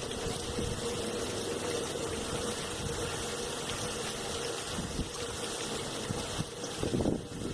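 Steady rush of rain and wind, with a constant hum underneath. There is a brief louder buffet about seven seconds in.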